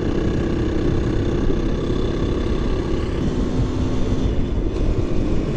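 KTM 350 EXC-F dirt bike's single-cylinder four-stroke engine running at steady revs while riding. Its note drops lower about three seconds in and picks back up just over a second later.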